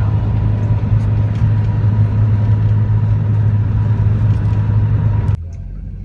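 Steady low rumble of a motor vehicle on the move, with a faint steady whine above it; it drops off suddenly near the end to a much quieter background.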